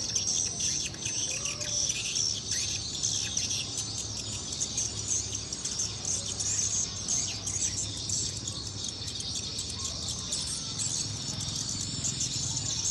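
Swiftlets twittering: a dense, unbroken chatter of short high chirps, over a steady low hum.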